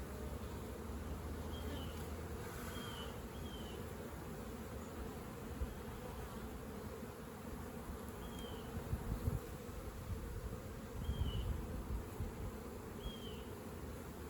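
Honeybees buzzing in a steady low hum, with six short high chirps spread through it and a couple of low thumps.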